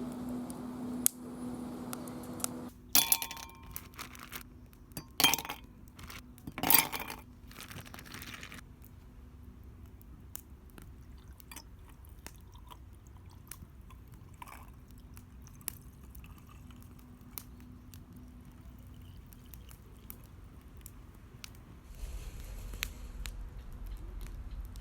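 Objects being handled, with three loud clinking clatters in the first seven seconds and then scattered faint clicks and taps. A steady low hum stops about three seconds in.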